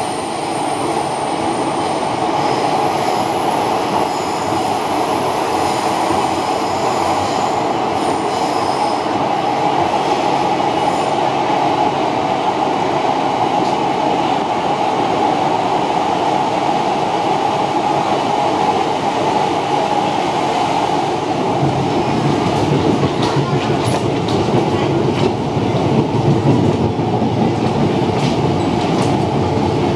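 Interior of an MTR Metro-Cammell electric multiple unit running at speed: a steady rumble of wheels on rail with thin high whines in the first half. Over the last third the rumble grows louder, with scattered rail clicks.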